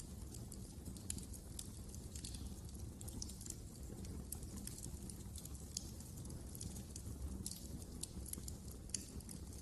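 Fire crackling in a fireplace: irregular sharp pops and snaps over a low, steady rumble of flames.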